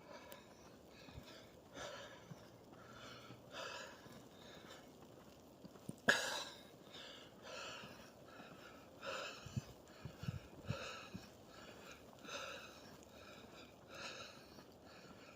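Footsteps crunching in snow at a steady walking pace, about three steps every two seconds, with one sharper crack about six seconds in.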